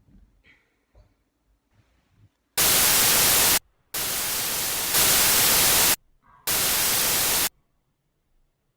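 Loud bursts of white-noise static, like a television with no signal, after a couple of seconds of near silence. Three bursts of one to two seconds each switch on and off abruptly; the middle one steps louder about halfway through.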